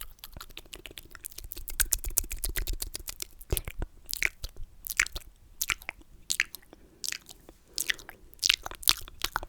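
Close-miked ASMR mouth sounds: sticky, wet clicks and smacks of lips and tongue. A dense run of small clicks in the first few seconds gives way to sharper, separate smacks about once or twice a second.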